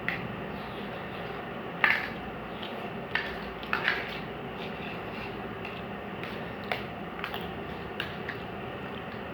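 Cutlery clinking and scraping on plates while eating rice pulao: scattered short clicks, a few louder ones in the first four seconds, over a steady background hum.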